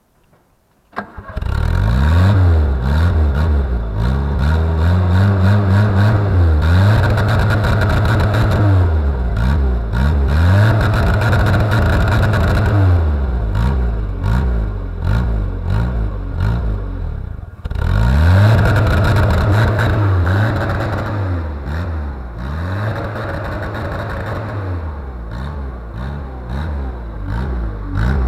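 A car engine starts suddenly about a second in and is then revved hard over and over, each time climbing to a flat top where it holds and stutters against the rev limiter before dropping back.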